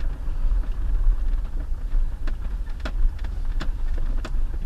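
Motor vehicle engine running with a steady low rumble, heard as from inside the vehicle. From about two seconds in there is a series of evenly spaced sharp clicks, a little under two a second.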